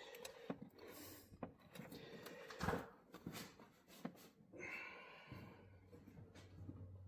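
Faint, scattered clicks and knocks of hand tools and parts being handled at the engine, with one louder knock near the middle and a short scrape about five seconds in. A low steady hum starts soon after the scrape.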